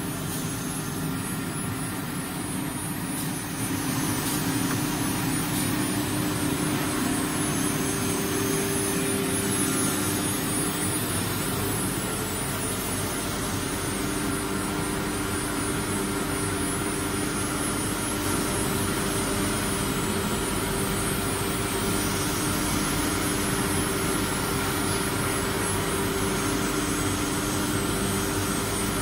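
CNC router with a carousel auto tool changer running, giving a steady mechanical hum with several held tones; it gets louder about three and a half seconds in and stays steady after that.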